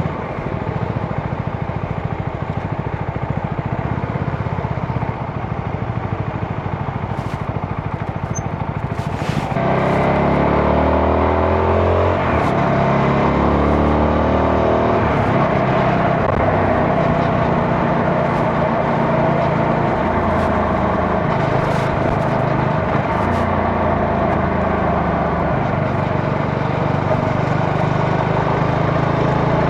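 CFMoto 250NK single-cylinder motorcycle engine ticking over for the first nine seconds or so, then pulling away: the engine note climbs and drops back several times as it shifts up through the gears, then holds at a steady cruising pitch.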